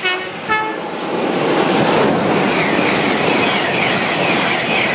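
LNER Class 801 Azuma electric train sounds its horn in two short notes as it approaches, then runs through the platform at speed with a loud rush of wheel and air noise that builds within the first second and holds.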